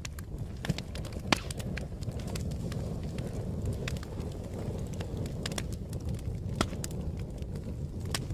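Fire crackling: a steady low rumble with scattered sharp pops and snaps, a loud one about a second in and another near the end.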